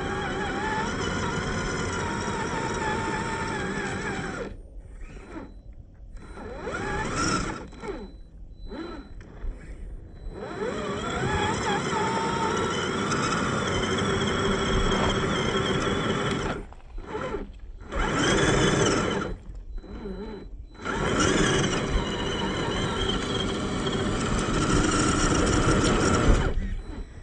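Scale RC crawler's brushed electric motor and gear drivetrain whining, the pitch rising and falling with the throttle, broken by several sudden cut-offs.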